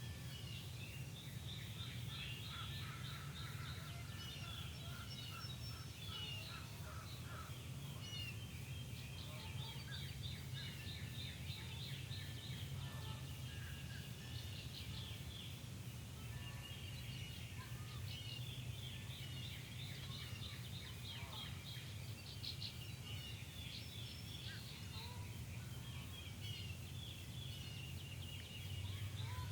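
Dawn chorus of many songbirds, dense overlapping chirps and trills, over a steady low hum.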